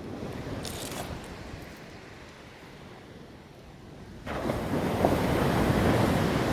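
Ocean surf washing on the beach, with wind buffeting the microphone; the rush of noise grows suddenly louder about four seconds in.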